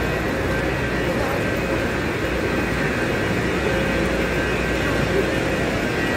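Steady drone of an electric high-speed train standing at the platform, with a few thin steady tones over a constant hum, mixed with the voices of people around.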